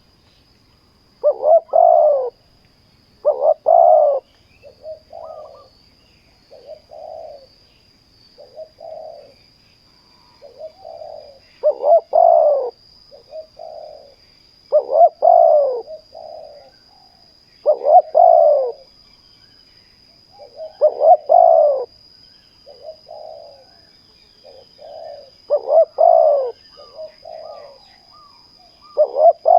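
Spotted doves cooing in repeated short phrases, louder coos every few seconds alternating with fainter ones in between. A faint steady high whine runs underneath.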